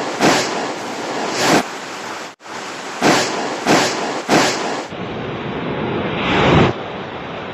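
Loud rushing water, noisy on the microphone, with regular louder swells about every two-thirds of a second. It cuts out abruptly about two and a half seconds in, then comes back duller for the last couple of seconds.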